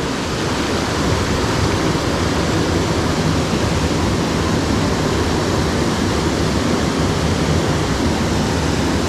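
Loud, steady rush of mountain-stream whitewater.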